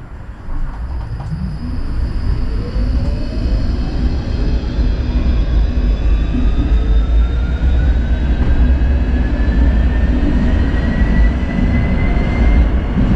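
Tram pulling away and accelerating: its traction motors give a rising whine that climbs steadily in pitch as speed builds, over a low rumble of wheels on the rails that grows louder.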